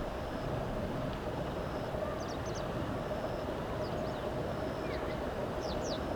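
A bird gives three quick clusters of short, high chirps over a steady low rumble.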